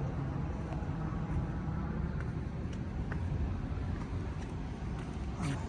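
Metra commuter train at the station, a steady low rumble with a haze of rail noise above it and a few faint scattered clicks.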